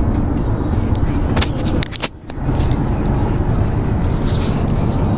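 Steady road and engine rumble heard inside the cabin of a moving Ford C-Max, with a brief sudden drop in loudness about two seconds in.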